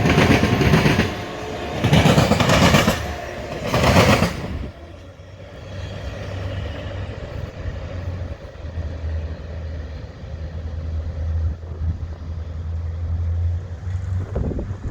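Railroad train passing, loud and clattering for the first few seconds, then dropping away to a low steady hum.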